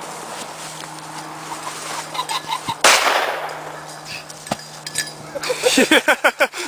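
A single shotgun blast about three seconds in, with a short ringing tail as it echoes off: the shot that brings down a flushed cock pheasant. Near the end comes a rapid string of excited vocal sounds.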